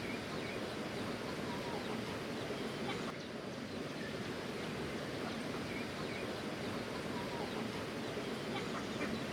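Steady rushing of water, with a few faint chicken clucks over it.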